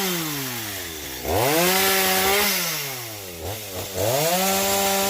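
Two-stroke chainsaw revving: the engine winds up to full throttle twice, about 1.3 s and 4 s in, holds high for a second or more each time, and drops back toward idle in between, while cutting up the fallen tamarind tree.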